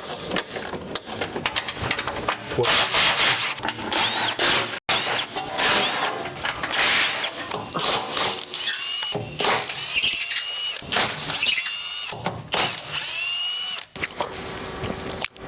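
Power tools running in short, uneven bursts with whining, changing pitch, as the exhaust fasteners are worked on; two brief dropouts break it up.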